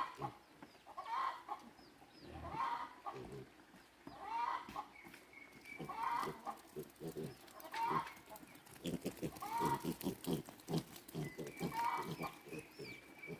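A chicken calling over and over, one short call about every second and a half, with a quicker patter of short low clucks and clicks for a few seconds past the middle.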